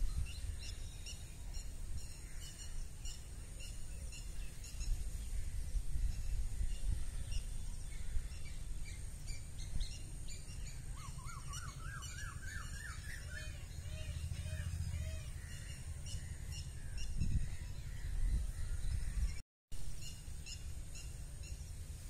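Several small birds chirping and singing, with one bird giving a quick run of notes that climb in pitch about halfway through. Wind rumbles on the microphone underneath.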